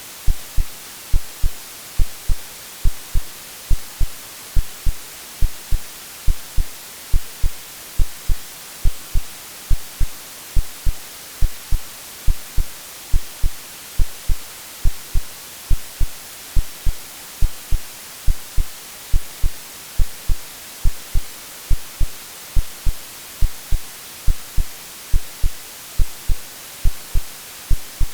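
Heartbeat sound: a steady lub-dub of low thumps, a little more than one beat a second, laid over constant white-noise hiss, like the womb sounds a baby hears.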